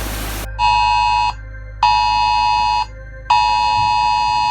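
An electronic alarm goes off about half a second in, sounding three times with short gaps, the last tone held longer. Each tone is a loud two-pitch beep. Before it starts there is a steady rushing noise that cuts off suddenly.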